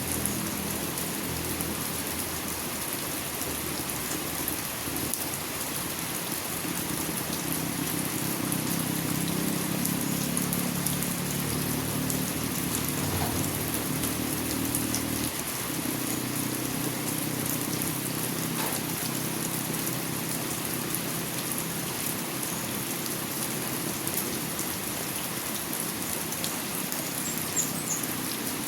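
Steady rain falling, with a low hum underneath that drops away about halfway through.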